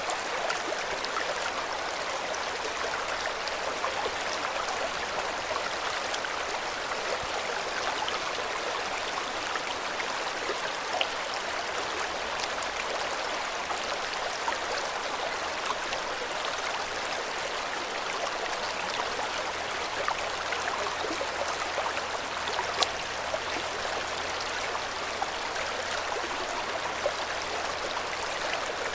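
Steady rushing and burbling of river water flowing over rocks, with small splashes now and then.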